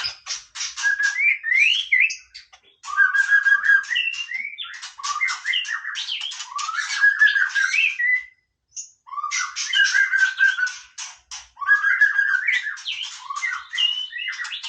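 White-rumped shama singing: phrases of rapid clicking notes woven with rising whistled notes, with one brief pause a little past the middle.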